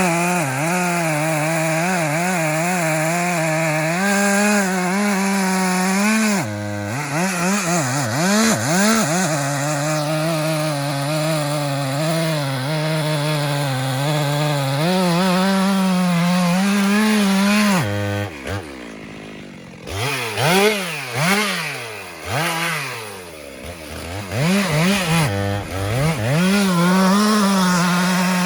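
Chainsaw running at high revs, cutting wood, its pitch wavering as it works. The throttle is let off briefly about six seconds in, and again for a few seconds past the middle, where the revs fall toward idle before picking back up.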